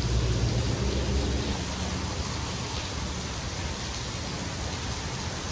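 Steady hiss of rain with a low vehicle hum that is strongest in the first two seconds and then fades.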